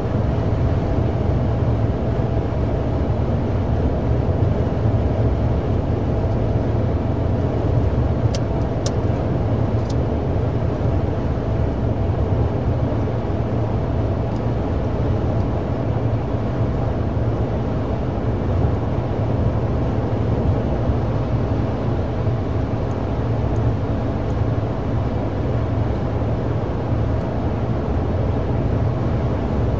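Steady low rumble of a car on the move, with a faint steady hum above it and a few light clicks about eight to ten seconds in.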